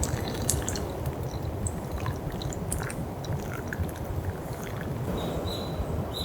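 Wood fire crackling, with scattered small pops and snaps over a steady low rumble. A brief high thin whistle sounds near the end.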